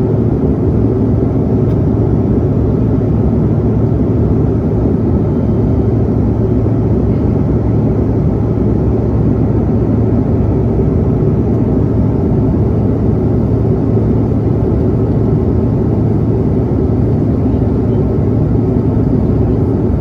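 Steady engine and airflow noise inside the cabin of an American Eagle airliner in flight, a constant deep rush with a low hum running through it.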